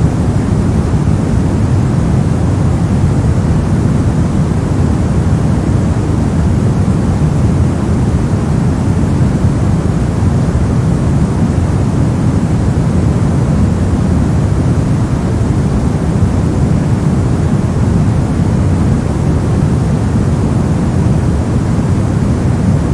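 Continuous white-noise track: a loud, even, unchanging rush of noise, weighted toward the low end.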